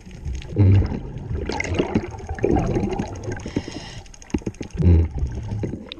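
Scuba diver breathing through a regulator underwater: a hiss of inhaling about three and a half seconds in, and gurgling bursts of exhaled bubbles, the strongest near the start and near the end, with scattered sharp clicks and knocks.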